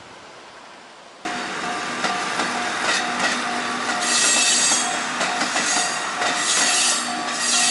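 Electric train rolling slowly through the points onto a siding, its wheels squealing against the rails in loud high-pitched surges, with clacks over the rail joints. A faint tone repeats about three times a second underneath. The sound starts suddenly about a second in.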